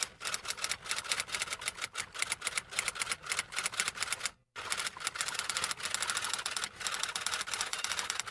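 Rapid, uneven clicks of keys being typed, with a short break about four and a half seconds in.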